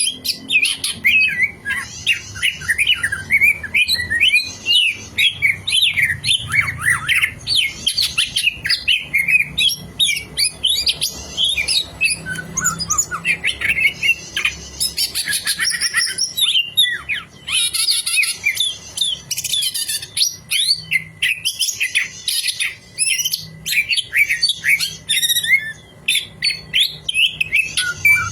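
Leafbird (cicak hijau) singing a continuous, fast, varied song of chattering whistles and slurred notes, broken now and then by short buzzy rattles.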